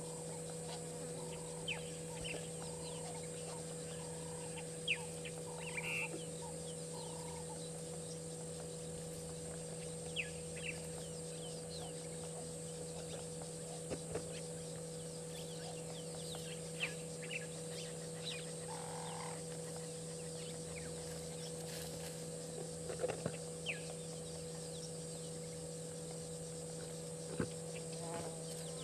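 Scattered short bird chirps and calls, a few every several seconds, over a steady hum and a high steady hiss.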